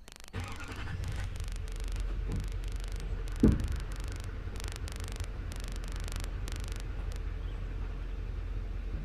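Pickup truck running and rolling slowly, a steady low rumble that comes in just after the start, with one sharp thump about three and a half seconds in.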